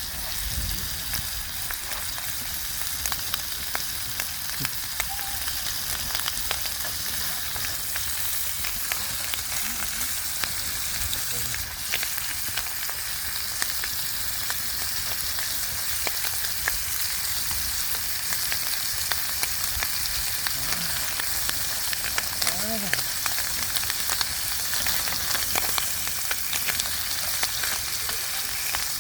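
Lamb sizzling as it grills: a steady hiss thick with small pops and crackles.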